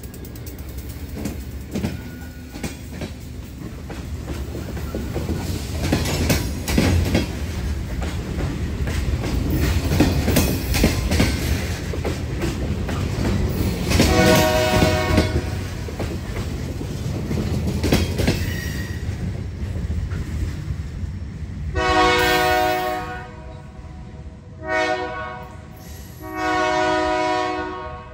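Diesel freight train rolling past, its engines rumbling and its wheels clicking over the rail joints. The locomotive horn sounds once about halfway through, then gives long, short and long blasts near the end.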